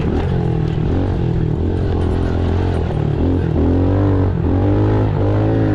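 Pit bike's small single-cylinder engine being ridden hard, revving up and falling back several times as the throttle is worked through deep sand.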